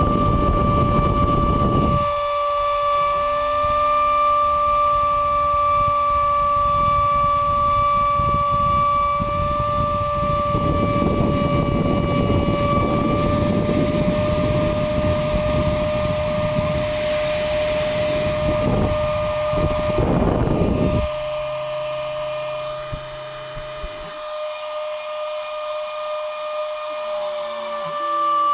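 Stepper motors of a homemade Arduino CNC with A4988 drivers whining at a steady pitch as they step, with a rough low rumble over it that stops about three quarters of the way through.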